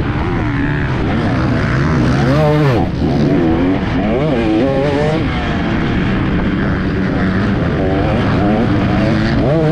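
Dirt bike engine revving up and down repeatedly as it is ridden around a motocross track, its pitch climbing and dropping about once a second with throttle and gear changes.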